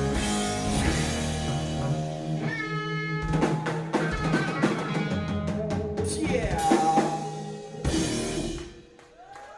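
Live rock band with drums and electric guitar playing the closing instrumental bars of a song, ending on a last hit about eight seconds in that dies away over the following second.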